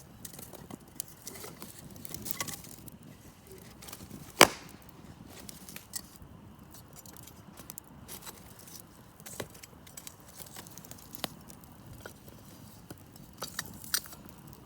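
Wood campfire crackling, with scattered small pops and one loud, sharp pop about four seconds in.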